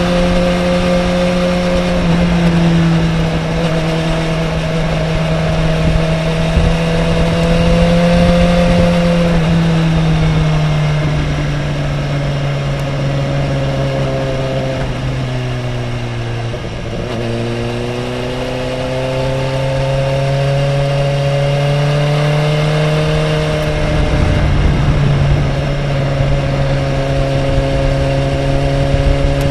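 Sport motorcycle engine running hard on a racetrack, its pitch stepping down a few times, sinking to its lowest a little past the middle and then climbing again, with another step down near the end. Steady wind rumble on the bike-mounted microphone underneath.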